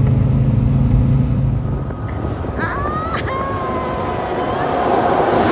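Heavy truck engine running with a steady low drone that drops away about two seconds in, followed by a few steady high-pitched tones.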